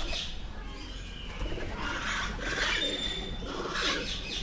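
Captive birds calling: a few harsh calls and a short whistled note about three seconds in.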